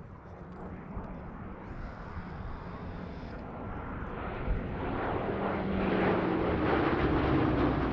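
Rolls-Royce Merlin V12 piston engines of a pair of Hawker Hurricanes running in a display pass, growing steadily louder from about halfway through as the aircraft close in.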